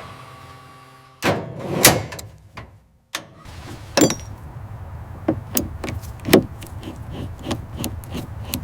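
Metal clanks and sharp knocks of heavy mechanical assembly work. It opens on a steady hum, with a louder clattering rush about a second in. After a brief gap comes a run of sharp, irregular knocks over a steady noise.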